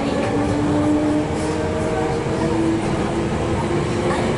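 Hankyu commuter train running, heard from inside the passenger car: a steady rumble of wheels and running gear with some faint held tones over it.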